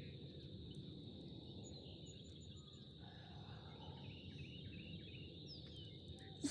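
Faint outdoor ambience: a steady high insect drone with scattered faint bird chirps over a low background hiss.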